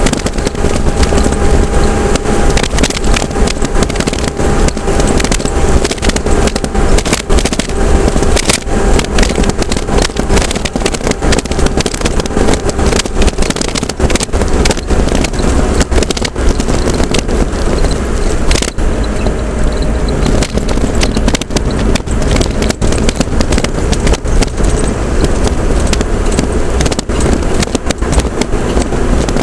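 A motor vehicle running steadily, with a strong low rumble and constant crackling and rattling noise.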